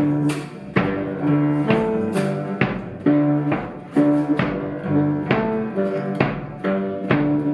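Instrumental ensemble music with plucked strings: held notes and a low bass line, broken by sharp attacks about twice a second in a steady rhythm.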